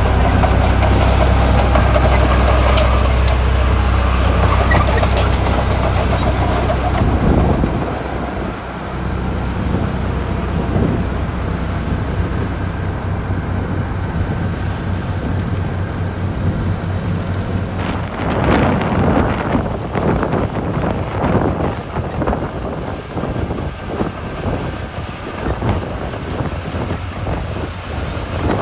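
Heavy diesel engine of earthmoving machinery running. A steady, deep engine hum lasts for the first seven seconds or so, then drops away, and the rest is rougher, uneven noise that surges irregularly in the second half.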